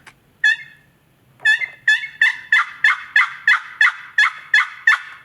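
Turkey yelping, loud and close: a single yelp, then a run of about a dozen evenly spaced yelps at roughly three a second, the calling used to make a gobbler answer.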